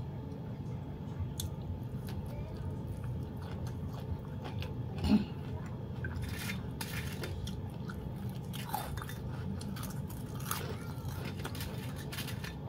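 A person chewing and biting food close to the microphone: mouth sounds of eating leafy mustard greens by hand, with scattered crisp crunches over a steady low hum. A single louder thump about five seconds in.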